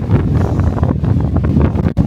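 Strong wind buffeting the microphone of a DJI Osmo Pocket 3 camera: a loud, low rumble that surges and dips with the gusts.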